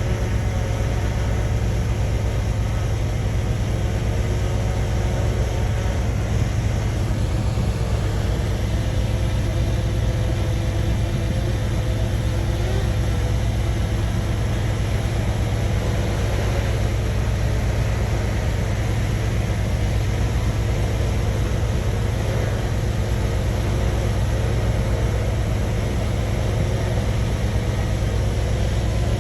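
Shantui bulldozer's diesel engine running steadily with a deep, even hum, without revving or sudden knocks.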